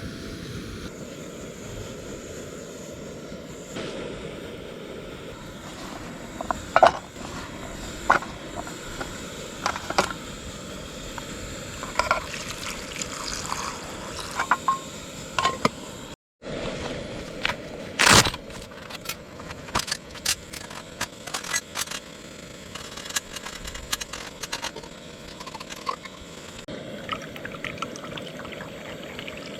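Camp cooking handling sounds: scattered clicks, taps and scrapes of utensils and containers over a steady outdoor background, cut off for a moment about sixteen seconds in.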